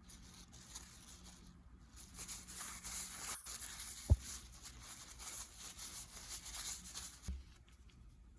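Workshop handling noise: several seconds of scraping and rustling, with one sharp low knock about four seconds in and a lighter one near the end, from hands working on bicycle bottom bracket parts.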